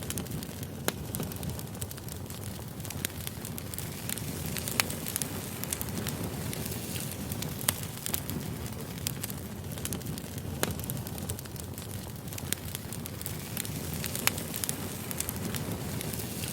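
Campfire burning: a steady low rush of flame with irregular crackling and sharp pops, about five of them standing out louder than the rest.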